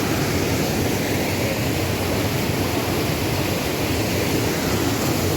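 Steady rush of water from a waterfall and river, an even noise without breaks.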